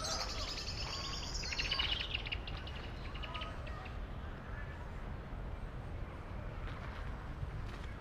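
Birds chirping and chattering, busiest and loudest in the first few seconds, then thinning to scattered chirps over a steady low city rumble.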